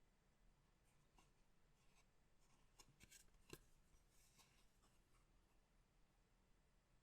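Faint rustling, scraping and small taps of trading cards and their packaging being handled, bunched from about one to five seconds in, with the sharpest tap about three and a half seconds in.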